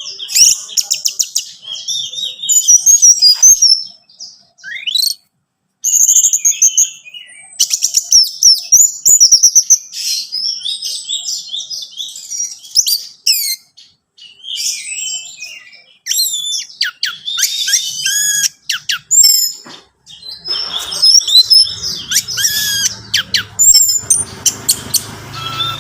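Orange-headed thrush singing: a long run of rapid, varied, high whistled phrases with short pauses between them. A low background hum comes in about twenty seconds in.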